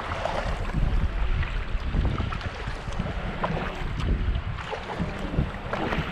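Water splashing and lapping against a kayak as it is paddled, with wind buffeting the microphone in a steady low rumble.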